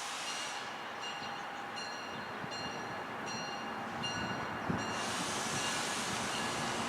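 A passing train, its rolling noise growing louder about four seconds in, with one knock shortly after. Through it a bright ringing tone repeats evenly, a little more than once a second.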